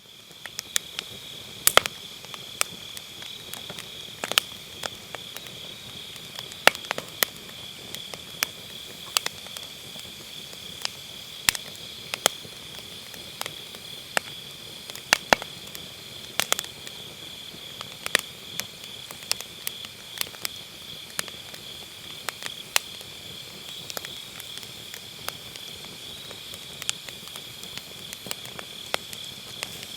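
Firewood burning in a round fire pit, with irregular sharp pops and crackles, over a steady high chorus of autumn grass insects.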